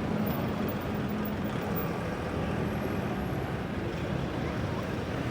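Road traffic driving past: a steady rumble of engines and tyres.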